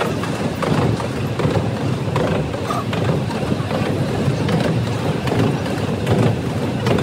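A narrow-gauge heritage railway's open-sided carriage running along the track: a steady low rumble with dense clattering and rattling from the wheels and coach.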